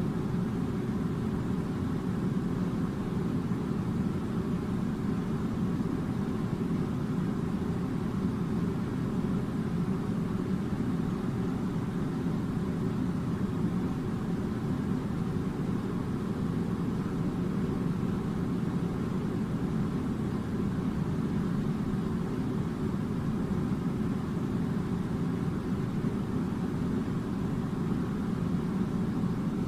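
Air conditioner running: a steady low hum and rush of air that holds unchanged throughout.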